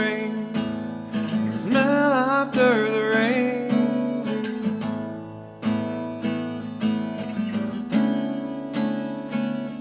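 Music: a strummed acoustic guitar, with a sung note held and wavering over it in the first few seconds. The guitar then goes on alone in even strokes.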